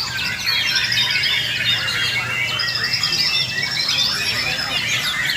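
Several white-rumped shamas singing over one another in a dense, continuous chorus of loud whistles and fast chattering trills, as competing caged birds do.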